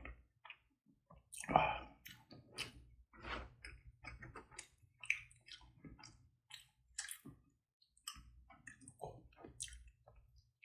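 Close-miked chewing of a mouthful of garlic bossam: irregular wet mouth clicks and smacks, with one fuller crunch-like sound about a second and a half in.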